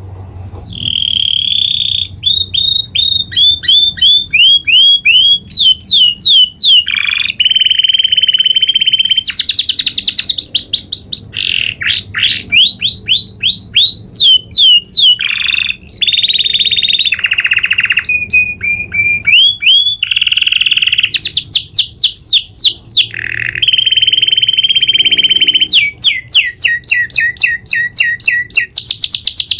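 Domestic canary singing a long, unbroken rolling song: rapid trills and runs of quick falling notes, changing phrase every second or two.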